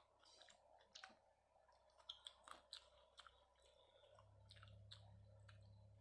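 Eating sounds of rice with daal being chewed: scattered wet mouth clicks and smacks. A low steady hum comes in about four seconds in.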